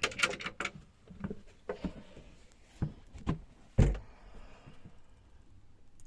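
A run of short knocks and clicks inside a small boat cabin, with a deep thump, the loudest, near the four-second mark, like fittings or a door being handled.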